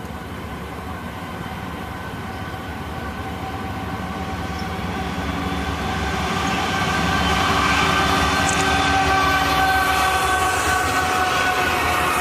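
Norfolk Southern diesel-hauled train approaching, its rumble growing louder over the first half and then holding, with steady chord-like tones sounding over it.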